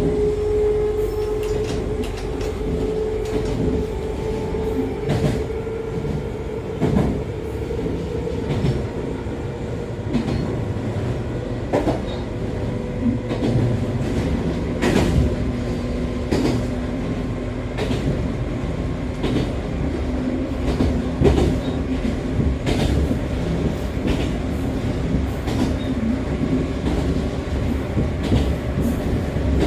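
Echizen Railway MC6101-series car MC6106, the unit noted for its abnormal running noise, heard from inside while running between stations: a steady whine from its MT54 DC traction motors and gearing that rises slightly at first, with a second, lower whine joining about halfway, over a rumble of wheels on rail. Irregular sharp clicks come from the wheels passing rail joints.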